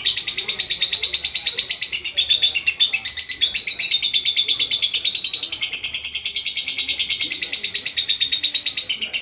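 A lovebird singing a long, unbroken chattering song: a rapid, even stream of high chirps, about ten a second.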